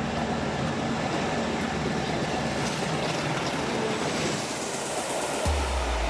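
A train running, a steady rushing rail noise with a faint steady tone early on. About five and a half seconds in, a deep low hum cuts in suddenly.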